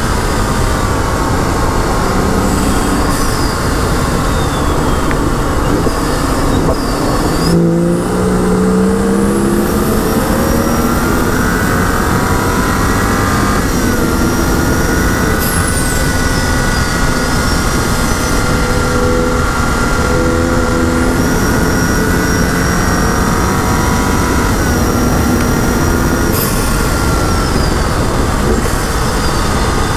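2011 BMW 135i's turbocharged inline-six running hard under track driving, with heavy wind and tyre noise. There is a brief break in the engine note near eight seconds in, after which the revs climb. The pitch steps down at upshifts about fourteen and twenty-five seconds in.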